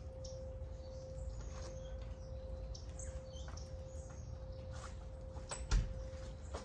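Small birds chirping in short, high calls, over a wind chime ringing one steady note and a low rumble. A single thump comes near the end.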